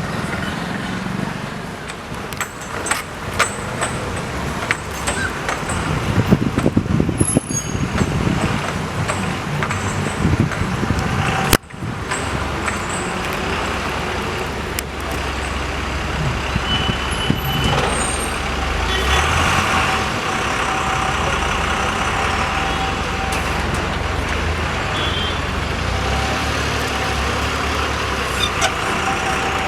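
Heavy road vehicles, buses and trucks, running in slow traffic, with a low engine rumble throughout and hissing air releases of the kind the title asks about.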